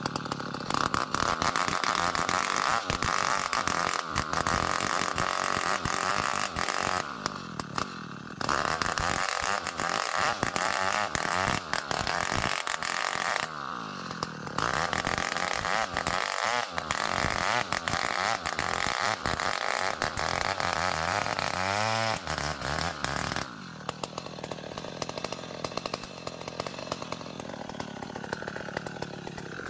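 Two-stroke chainsaw ripping lengthwise through an ulin (Bornean ironwood) log to square it into beams, running at full speed under load. It eases off twice for about a second, and after about 23 seconds the revs fall away and it settles to a lower idle.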